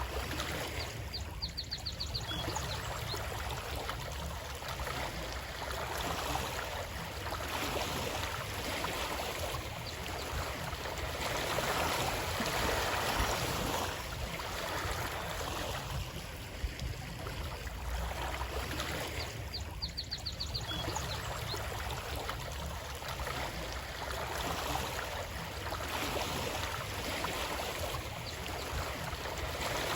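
Running water: a steady rushing that swells and eases every eight or nine seconds. A brief, high, rapid trill sounds twice, about a second in and again some eighteen seconds later.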